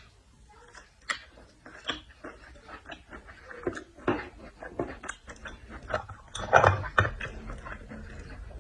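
Close-up eating sounds of a person eating scallops: wet chewing and sucking, with small irregular clicks and smacks, a louder burst about six and a half seconds in.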